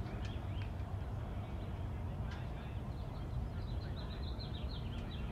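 Birds chirping in a fast, continuous series of short high notes, over a steady low background noise.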